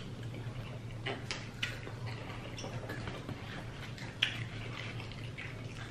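Eating sounds: a handful of short, soft crunches and clicks at uneven intervals as crispy breaded fried chicken is bitten and chewed close to the microphone, over a low steady hum.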